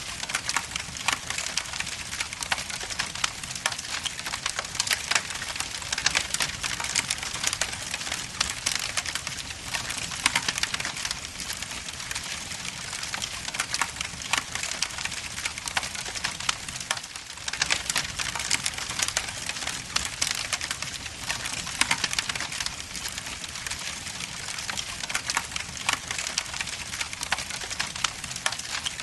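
Logs burning in an indoor fireplace, crackling and popping continuously with many sharp snaps over a soft hiss.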